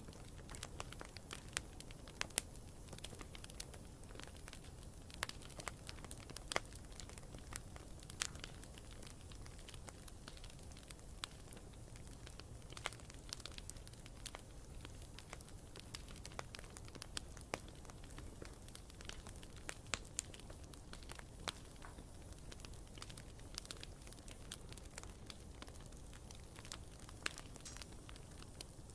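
Wood campfire crackling, with irregular sharp pops and snaps over a steady low background of the burning fire.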